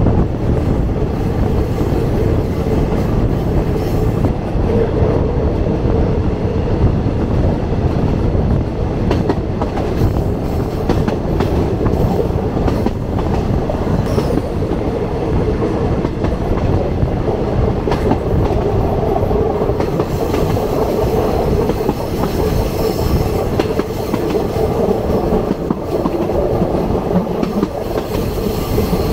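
A passenger train running along the track, heard from an open carriage window: a loud, steady rumble of wheels on rails with a steady hum and scattered clicks as the wheels pass over rail joints.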